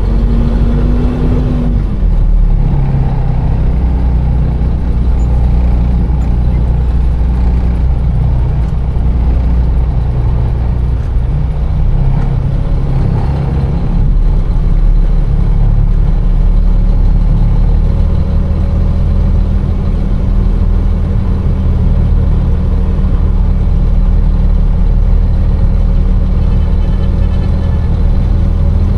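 Container truck's diesel engine running, heard from the driver's cab: a steady low drone whose pitch drops about two seconds in and rises again to a steady note around halfway through.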